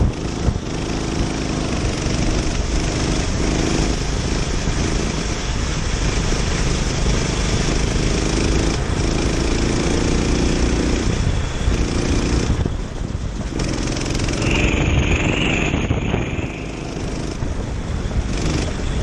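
Kart engine running with its pitch rising and falling as it is driven, under a steady rush of wind noise on the microphone. The engine eases off briefly about two-thirds of the way through, and a short high-pitched tone sounds soon after.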